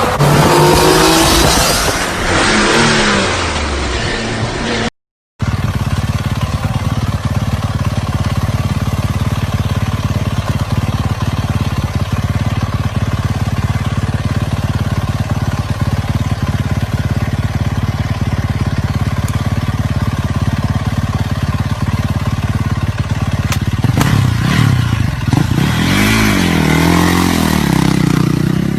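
Dirt bike engines revving, with the pitch swinging up and down; after a brief cut to silence, an engine runs at a steady note for a long stretch, then revs up and down again near the end.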